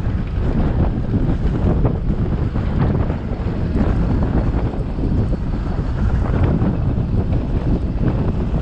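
Wind buffeting the microphone of a GoPro action camera on a moving scooter: a loud, churning low rumble with no distinct events.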